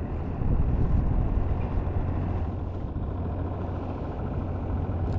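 Boat engine running steadily, a constant low hum with a rushing noise over it.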